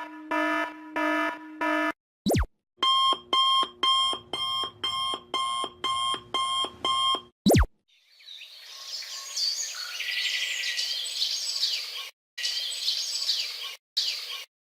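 A string of short sound effects: four low electronic beeps, then an alarm clock beeping in even pulses, about two or three a second, for several seconds, followed after a quick sweep by a stretch of high chirping.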